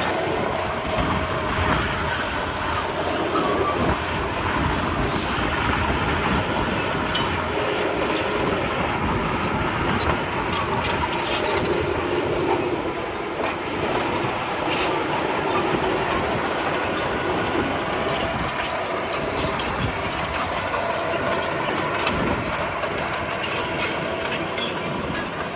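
Crawler bulldozer working: its diesel engine runs steadily while the steel tracks clank and squeal, with sharp metallic clicks scattered throughout.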